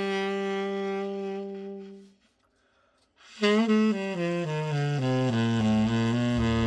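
Tenor saxophone holding one long note that fades out, then, after about a second's pause, playing a quick run of notes stepping down to a low note.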